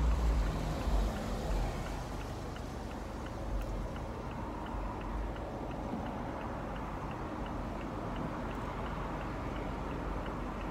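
Ferrari's engine and road noise as a steady low rumble from inside the open-top car, with a light, regular ticking at about three ticks a second that starts a couple of seconds in and fades out near the end.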